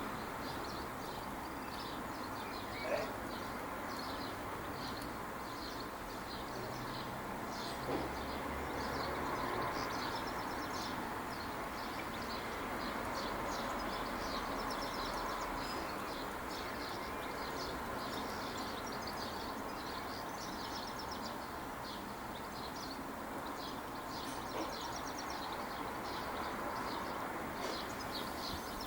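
Birds chirping and twittering with many short high calls throughout, over a steady low background hum, with a few faint knocks.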